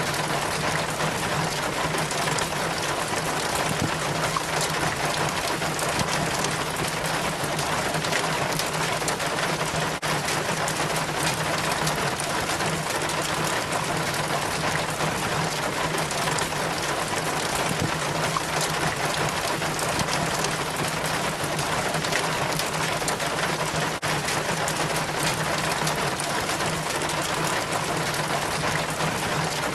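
Rainwater trickling and splashing down a rain chain from a roof gutter: a steady, dense patter of running water and drips.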